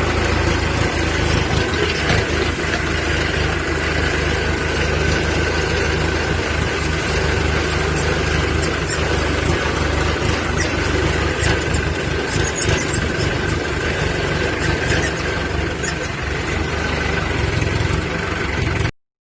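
Tractor engine running steadily, then cutting off suddenly near the end.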